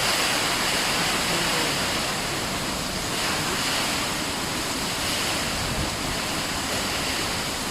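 A storm: a loud, steady rushing noise of storm wind and rain.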